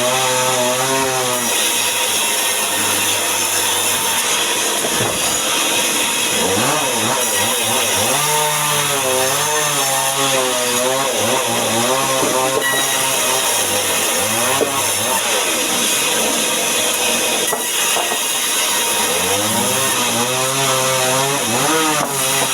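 Chainsaw running under load as it cuts through timber. The engine pitch rises and falls repeatedly as the cut bites and eases.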